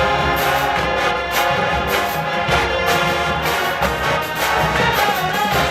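HBCU show-style marching band playing: a full brass section holding loud chords over a steady drum and cymbal beat.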